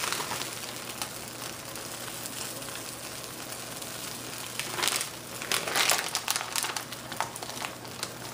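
Quesadillas frying in a pan with a steady, quiet sizzle. About halfway through come several louder crinkly rustles from the plastic bag of shredded cheese as cheese is sprinkled on.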